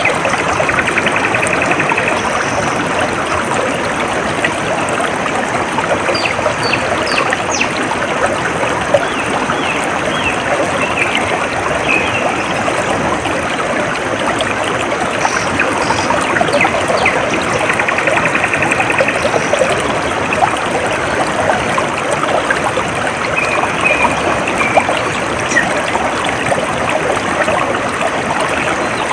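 A small stream trickling and babbling steadily. Birds chirp now and then over it, with two short trills, one near the start and one about two-thirds of the way through.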